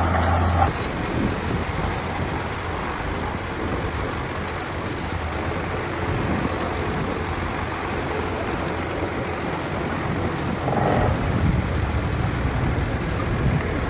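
Heavy diesel earthmoving machinery running. A strong low engine hum drops away under a second in, leaving a broad rumble, and the engine note builds up again near the end.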